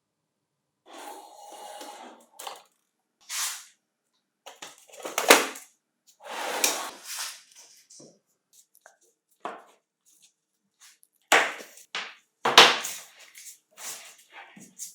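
Hard parts of an old angle grinder being handled and set down on a work surface: a series of separate knocks, clatters and short scrapes, with silence between them.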